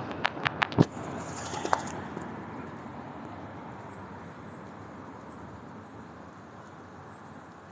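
Steady outdoor city background noise, slowly fading, with a few sharp clicks in the first two seconds and faint high-pitched peeps in the second half.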